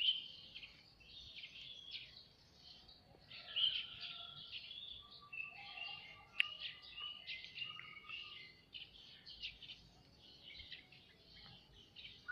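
Small birds chirping and twittering quietly in quick high notes, with a few short whistled notes near the middle.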